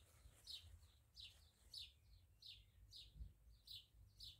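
A songbird faintly repeating a short, high, downward-sweeping chirp about one and a half times a second, with a faint low rumble underneath.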